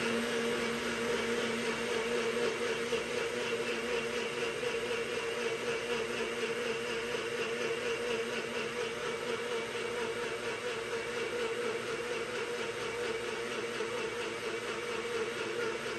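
Countertop blender motor running steadily, blending a drink, with an even hum.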